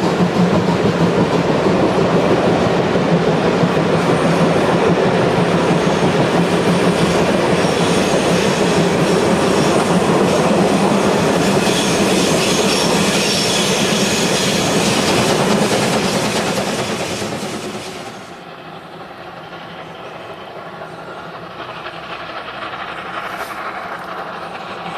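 A passing train, its wheels clattering over the rails. Loud and steady at first; about three-quarters of the way through the sound drops suddenly and carries on much quieter and duller.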